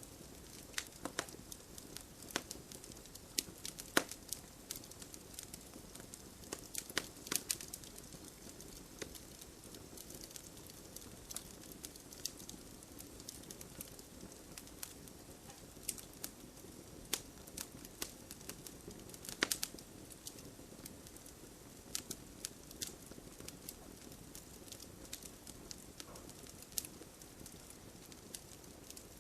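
Campfire burning with a low steady hiss and irregular crackles and sharp pops from the wood, a few louder pops standing out.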